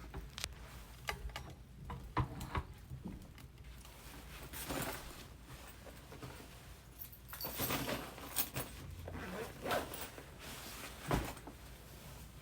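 Scattered rustling, clicks and knocks of a person handling things and moving about a room, with a sharper knock near the end.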